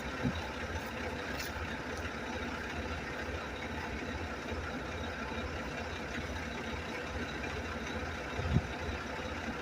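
Truck engine idling steadily, with a brief thump near the end.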